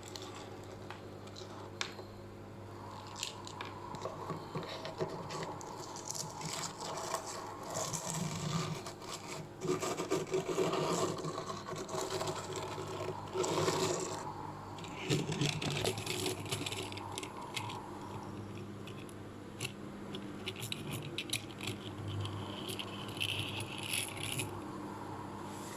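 Scraping, rattling and knocking of objects being handled, in irregular spells over a steady low hum.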